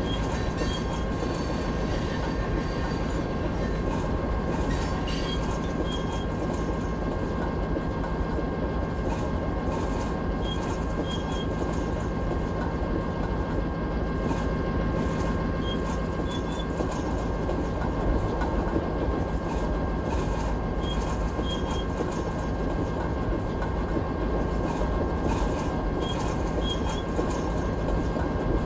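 A train running steadily on the rails: a continuous low rumble with a thin steady high-pitched whine over it and scattered light clicks.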